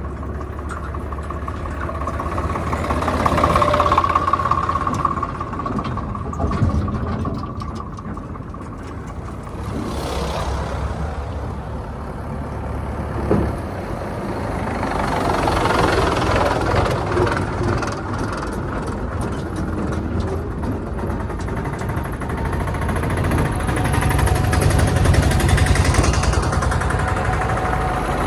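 Heavy diesel engines of earthmoving vehicles running under changing load, swelling and easing several times, with a brief whine about three to four seconds in and a single knock near the middle.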